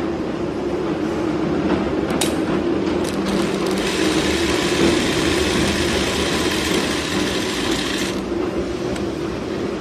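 ZY20U43 zigzag sewing machine running with a steady hum, a couple of clicks about two and three seconds in, then a louder, hissier run from about four to eight seconds in.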